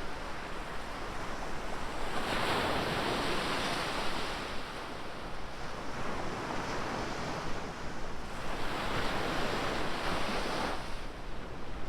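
Ocean surf breaking and washing on a beach, in swells of rushing noise: one about two seconds in, another around six seconds, and a third from about eight and a half seconds that fades near the end. A steady low wind rumble on the microphone runs beneath.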